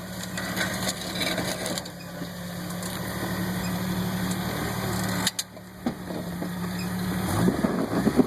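Vehicle engine idling steadily, with a brief dip about five seconds in.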